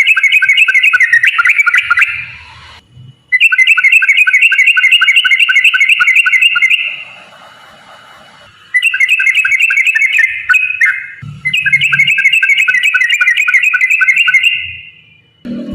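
Yellow-vented bulbul (trucukan) singing in long, rapid rolling bouts of bubbly repeated notes, about six a second. Four bouts, with short pauses after about three, seven and eleven seconds.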